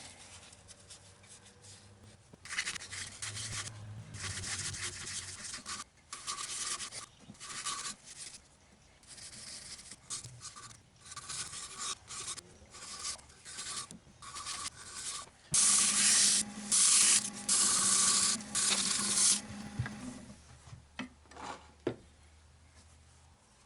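Abrasive sanding paste being rubbed hard against a turned wooden bird-feeder piece, heard as a run of uneven hissing rubbing strokes. The strokes are loudest and most continuous for several seconds past the middle, with a faint low hum underneath.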